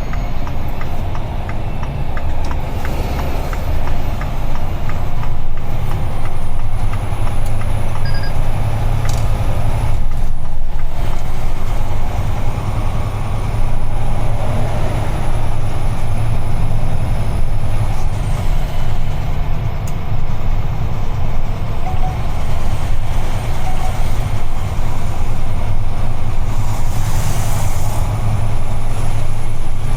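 Inside the cab of a UD Trucks Quon heavy truck on the move: the diesel engine's steady low drone mixed with road noise. There is a short hiss about 27 seconds in.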